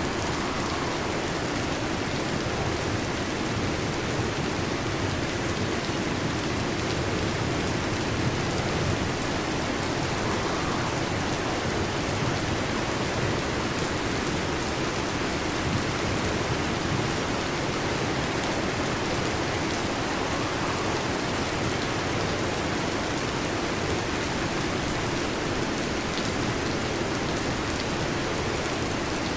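Heavy rain falling steadily on a metal roof, an even, unbroken patter with no thunder.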